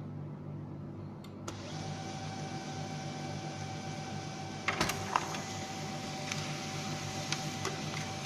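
A small electric machine starting up about one and a half seconds in and running steadily with a constant whine over a low hum, with a short clatter of clicks near the middle.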